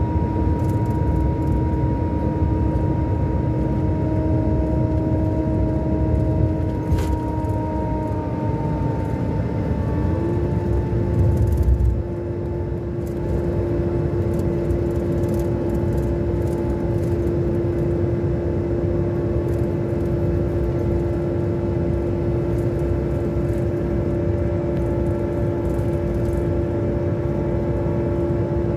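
Scania K400 Euro 5 coach engine running steadily under way, a continuous low rumble with a steady whine whose pitch steps up slightly about ten seconds in.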